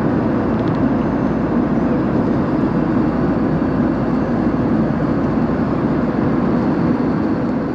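Steady cabin noise of an Airbus A320-232 in flight: a constant rumble and rush of its IAE V2500 turbofan engines and the airflow over the fuselage, with a faint steady hum.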